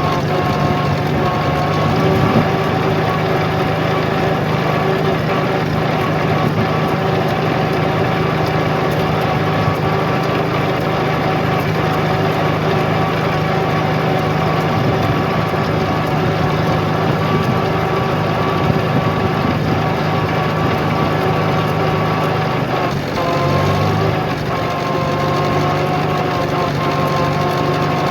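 Farmall A tractor's small four-cylinder engine running steadily under way, with a brief drop in engine speed a few seconds before the end before it picks back up.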